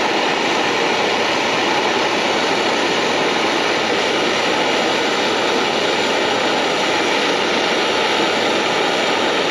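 Handheld plumbing torch burning with a steady, loud hiss and a faint steady whistle, heating a copper pipe fitting for soldering.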